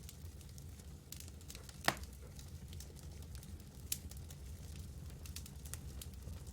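Campfire crackling: scattered small crackles over a low steady rumble, with one sharp loud pop about two seconds in and a smaller pop near four seconds.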